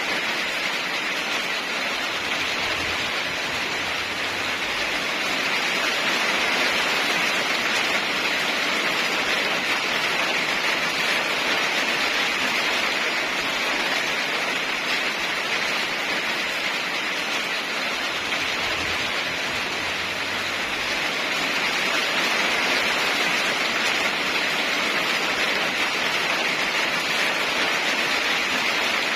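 Heavy rain falling in a steady hiss, swelling and easing gently in loudness.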